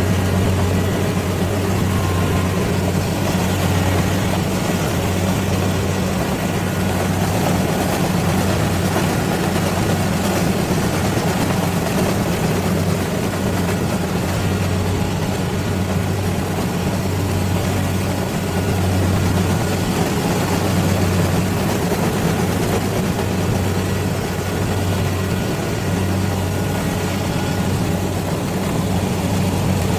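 Rice combine harvester's diesel engine running steadily with a low hum.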